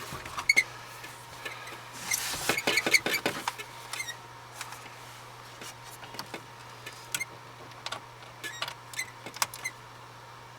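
Scattered clicks and plastic rattles of a car radio and its wiring connectors being handled and unplugged in a dashboard, busiest about two to three and a half seconds in, over a steady low hum.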